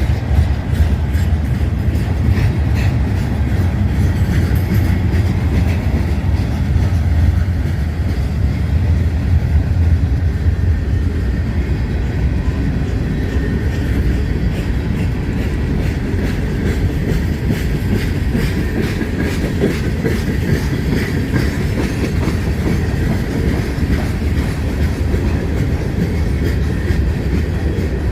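Freight train rolling past at a steady pace, its wheels clicking over the rail joints. A heavy low rumble of wind on the microphone runs under it.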